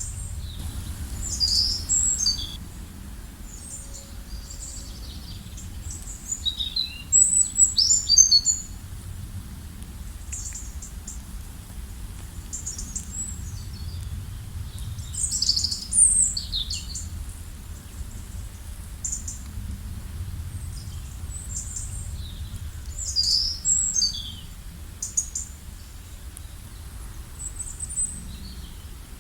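Birds chirping and calling: short, high chirps come in irregular clusters throughout, loudest about a quarter of the way in and again near the middle, over a faint steady low rumble of outdoor ambience.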